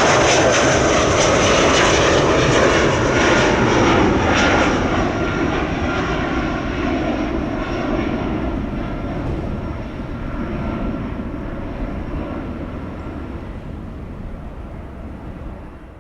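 Jet airliner's engines passing close, a loud roar with a steady high whine that slowly fades away.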